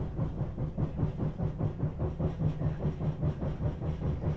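SEPTA regional rail train running at speed, heard from inside the passenger car: a steady low rumble of wheels on rails with a quick, regular pulsing.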